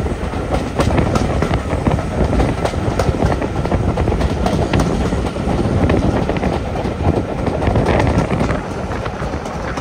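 Train running along the track: a steady rumble with many quick clicks and knocks from the wheels on the rails.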